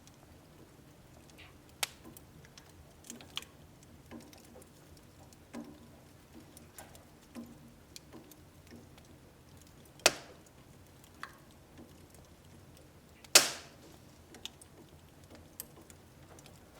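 Wood fire burning in a household wood stove, crackling with scattered small ticks and a few sharp pops. Louder pops come about two and ten seconds in, and the loudest about thirteen seconds in.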